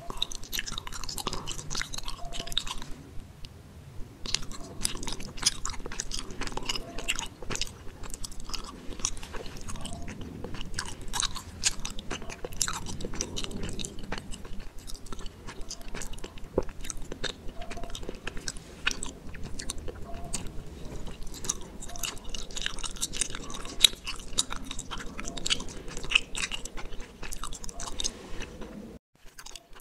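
Chewing a gummy bear close to the microphone: a continuous run of small smacking clicks that cuts off suddenly near the end.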